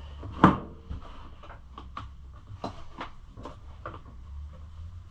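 A sharp knock about half a second in, then scattered lighter clicks and taps of hard plastic as a rear plastic fender is worked into place on a pit bike.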